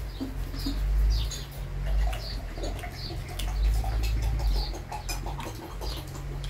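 Small birds chirping repeatedly in short high calls, over a steady low hum.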